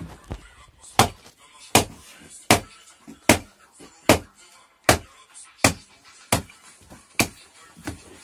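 Chopping through pork carcass bone and ribs with a heavy blade: about ten hard chopping blows in a steady rhythm, one roughly every three quarters of a second, starting about a second in, with lighter knocks between them.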